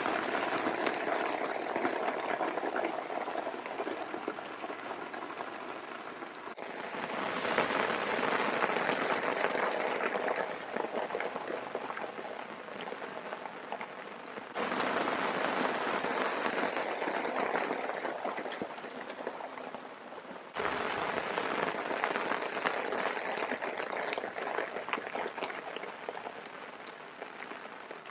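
Heavy rain pouring down steadily, a dense hiss of drops. It jumps abruptly to a new stretch of rain three times, at about seven, fifteen and twenty-one seconds.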